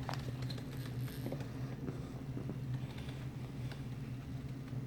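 A steady low hum with faint, scattered small clicks and taps, the rustle and knock of a person shifting position between exercises.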